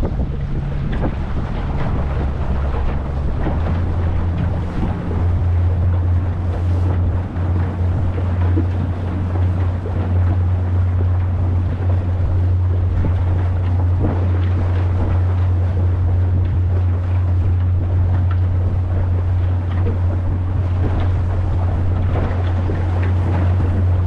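Motorboat engine running at cruising speed, a steady low drone that shifts pitch and settles about three seconds in, with water rushing past the hull and wind buffeting the microphone.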